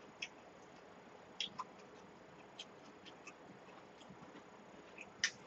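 Faint, scattered mouth clicks and smacks of someone chewing food close to the microphone, about a dozen short ticks at uneven intervals.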